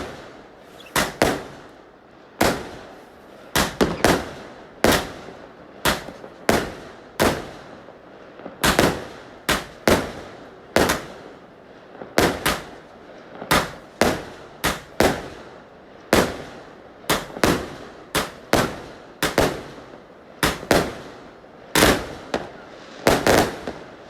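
Fireworks exploding in a long, steady run of sharp bangs, about one or two a second, each with a short echoing tail.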